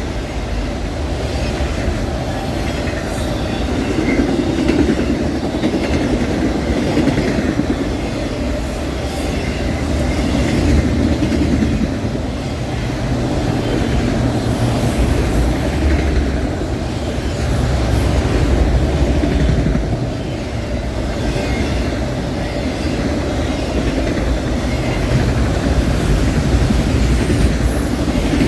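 Freight train rolling past at track speed, a steady rumble of cars with wheels clacking over the rails.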